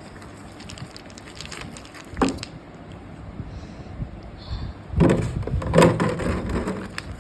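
Packaging of naphthalene balls being handled and opened: a sharp knock about two seconds in, then a louder spell of rustling, clicking and knocking from about five seconds in.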